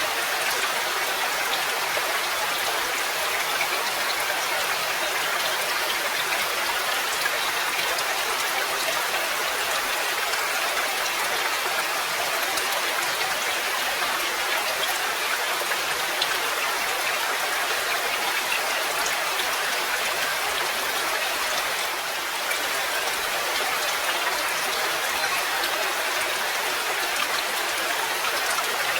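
Steady rain with pattering drops.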